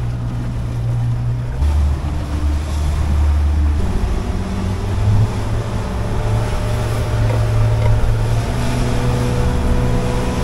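Yamaha outboard motor running with the boat under way, with wind and water rushing past. The engine note shifts lower about one and a half seconds in and rises again about four seconds in.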